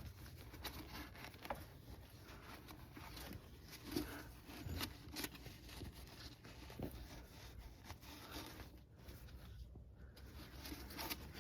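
Faint handling noises from a cleaned-out car rear differential being turned over and inspected: scattered light scrapes, rubs and small clicks over a low room hum.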